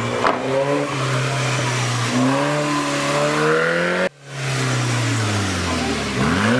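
A car engine revving hard, its pitch climbing steadily for about four seconds; after a sudden brief drop-out the revs fall away.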